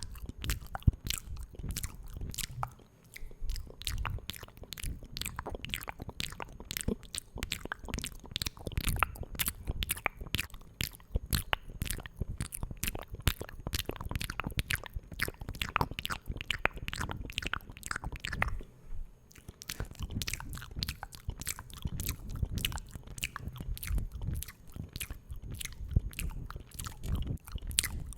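Close-miked ASMR mouth sounds: rapid, wet clicking and smacking of lips and tongue, with a short pause about three seconds in and another around nineteen seconds.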